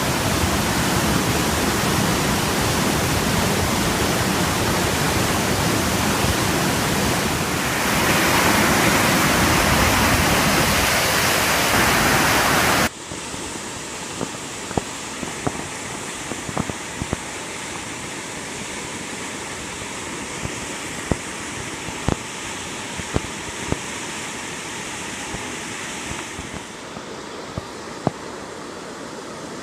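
Floodwater in a swollen creek rushing hard, a loud steady roar of water. About thirteen seconds in it cuts abruptly to a quieter, steady rush with scattered sharp ticks.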